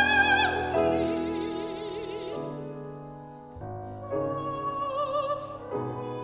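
Classical art song: a soprano holds a high note with vibrato that slides down and stops about half a second in, followed by quieter piano-accompanied music.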